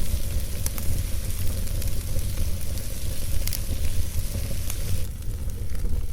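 Campfire burning, hissing and sizzling with scattered sharp crackles and pops, over a steady low rumble; the hiss eases about five seconds in.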